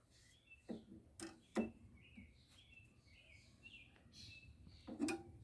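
Small birds chirping faintly in short, repeated notes, with several sharp knocks; the loudest knocks come about a second and a half in and near the end.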